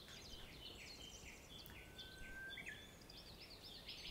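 Faint birds chirping and twittering, many short falling chirps overlapping one another, with one held whistled note about midway.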